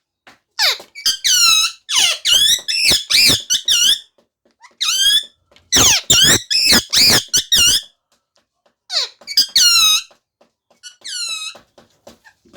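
Pet parrot calling: a run of loud, high-pitched squawks in quick clusters, with short pauses about four and eight seconds in.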